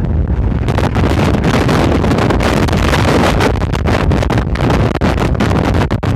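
Strong mistral wind blowing hard against the microphone: a loud, gusting rumble of wind buffeting.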